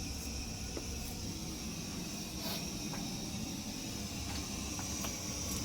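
Steady background hiss over a low rumble, with a few faint clicks.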